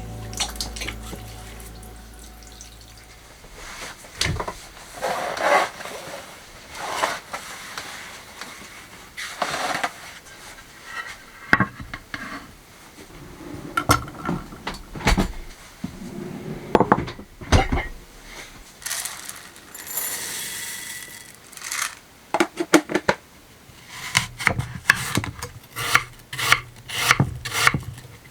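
Kitchenware being handled: dishes, pots and cutlery clinking and knocking with some rubbing and scraping between, in scattered separate knocks that come in a quick run of clatters near the end.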